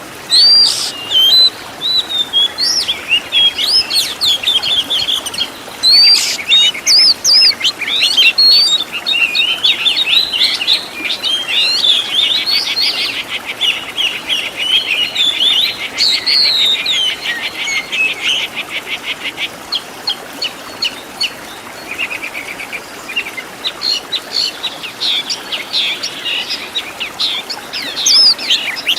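Oriental magpie-robin (kacer) singing a long, varied song of quick whistled notes and chirps, with rapid rattling trills running several seconds in the middle.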